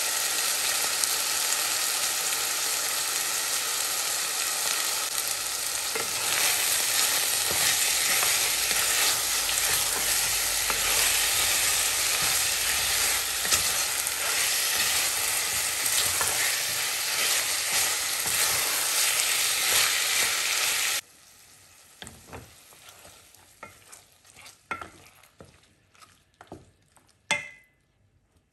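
Chicken pieces frying in oil with oyster sauce in a stainless steel pot, sizzling loudly while being stirred with a spatula. About three quarters of the way through, the sizzle cuts off suddenly, leaving only scattered quiet clicks and scrapes of stirring.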